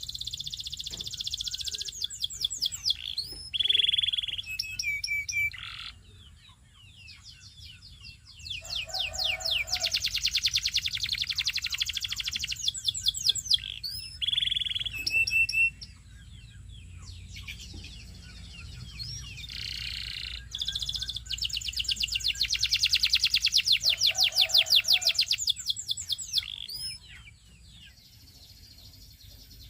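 A Belgian singing canary sings long rolling trills of fast repeated high notes, broken by short whistled notes and a few lower bubbling notes. The song comes in phrases of several seconds with brief pauses between them.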